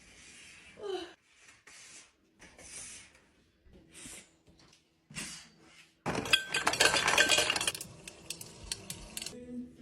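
Hard objects clinking and clattering in a series of short bursts. About six seconds in comes a dense, louder clatter lasting nearly two seconds.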